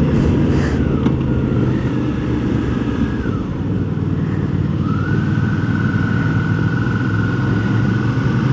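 Suzuki V-Strom 650 motorcycle engine running at a steady cruise, heard from the rider's helmet mic with wind rush over it. A thin, steady whistling tone comes in about five seconds in.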